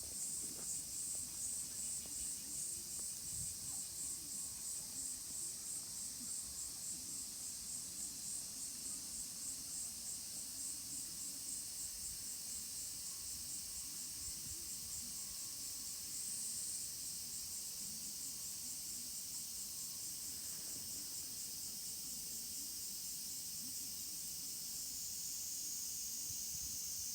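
Insect song: a high, pulsing buzz repeating about twice a second, changing near the end to a steadier high whine.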